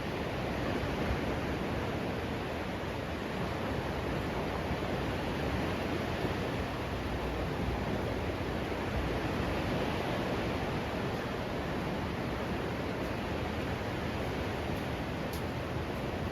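Steady rushing noise of wind on the microphone mixed with surf along the beach, with no distinct events.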